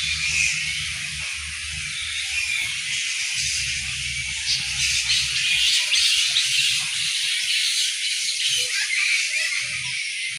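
Dense, continuous chorus of high chirping and buzzing from insects and birds in tropical parkland. Under it is a low rumble that comes and goes.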